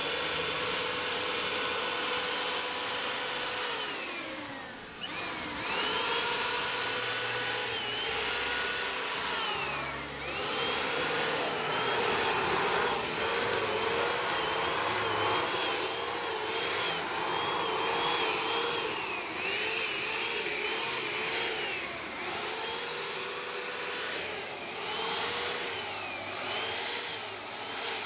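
Electric spray gun running with an airy hiss and a motor whine whose pitch sags and recovers over and over, as it sprays a light first coat of white Plasti Dip.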